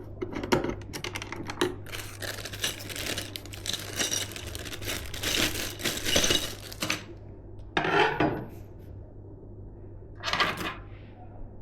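Computer parts and their plastic packaging being handled: a run of small clicks and taps, then several seconds of crinkly plastic rustling, and two short rustles near the end.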